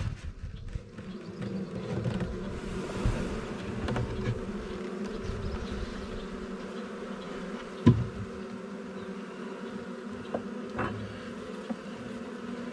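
A swarm of honey bees buzzing in a steady, dense hum around their opened swarm box. Two sharp knocks break through it, one right at the start and a louder one about eight seconds in.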